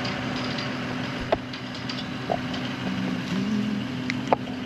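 An engine running steadily in the background, with three sharp metallic clinks of tools and pipe fittings being handled.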